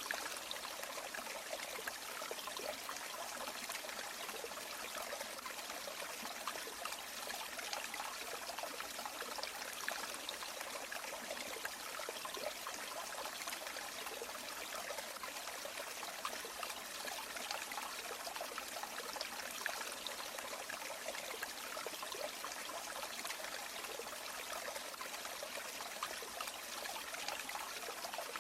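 A shallow river or stream running steadily, water trickling and splashing over stones.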